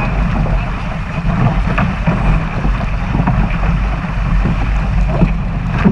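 Strong wind buffeting the microphone over water rushing and splashing along the hull of a 420 sailing dinghy sailing fast in a gale.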